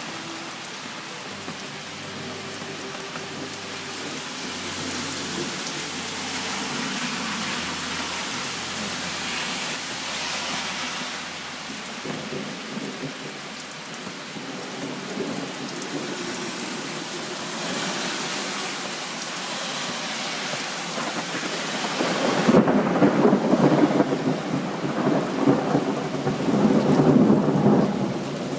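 Heavy rain falling on a transparent plastic umbrella, a steady hiss and patter, with a rumble of thunder rising about two-thirds of the way through and staying loud, swelling and fading, for the last several seconds.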